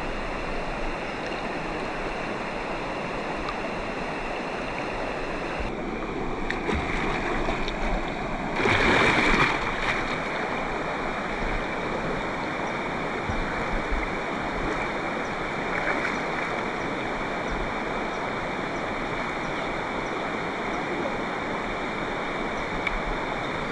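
Steady rush of flowing river water, swelling louder for about a second and a half around nine seconds in.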